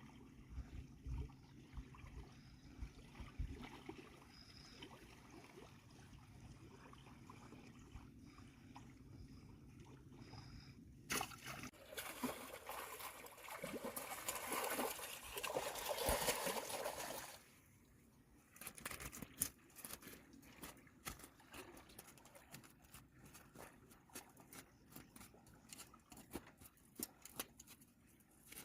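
Water sloshing and splashing, quiet at first and then louder for about six seconds in the middle, followed by scattered small clicks and knocks.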